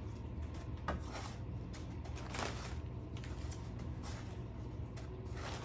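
Faint scraping and rustling as chicken tenders are pressed into breadcrumbs and handled, a few short soft strokes over a steady low hum.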